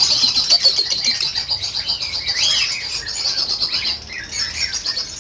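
A flock of lovebirds chattering, with a dense stream of rapid high chirps and separate rising-and-falling calls over it.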